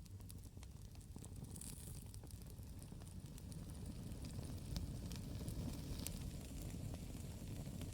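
Campfire burning: a steady low rumble with irregular sharp crackles and pops of the burning wood, a couple of them louder about five and six seconds in.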